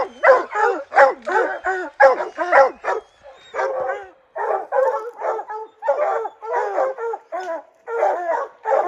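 Bear hounds barking in a fast run of short calls, about three a second, with a brief lull partway through: treed barking at a bear up the tree.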